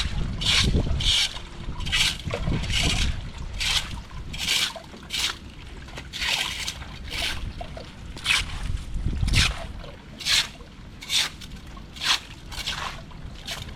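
Water splashing and sloshing in short repeated bursts, about one or two a second, over a steady trickle, as debris is worked loose in a clogged culvert drain.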